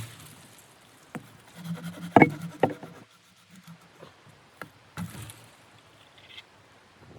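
A few separate sharp knocks and clunks of handling something hard: the loudest cluster comes about two seconds in, with single knocks about a second in and twice more near the five-second mark.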